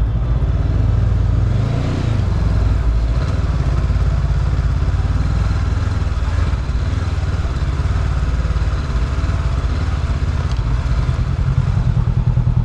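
Motorbike engine running at low speed, a steady low pulsing note.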